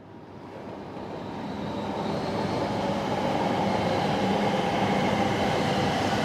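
Chinese high-speed train running: a steady rush of rail noise with faint steady whining tones, swelling up over the first three seconds and then holding level.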